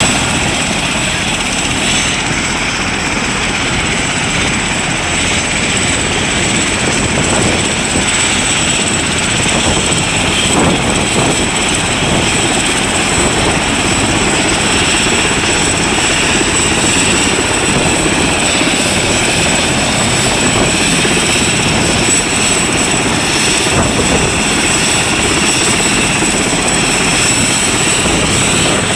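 Air ambulance helicopter running steadily, with a thin high whine held over the rotor and engine noise.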